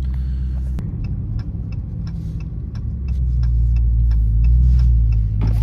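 Dodge Charger R/T's 5.7-litre HEMI V8, with its mid muffler deleted, idling as heard from inside the cabin; its low drone shifts a little about a second in and grows louder about three seconds in. A quick, even ticking, about three ticks a second, runs over it.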